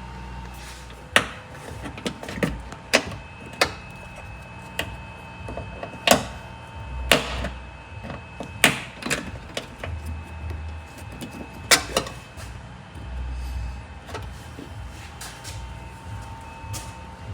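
Plastic wiring cover and trim being handled and pressed into place: irregular sharp clicks and knocks, about eight louder ones spread through the stretch, with soft low thuds between and a faint steady tone underneath.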